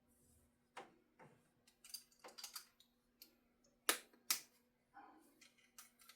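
Scattered light clicks and taps of small metal guitar parts and tools being handled during assembly, with two sharper clicks about four seconds in. A faint steady hum runs underneath.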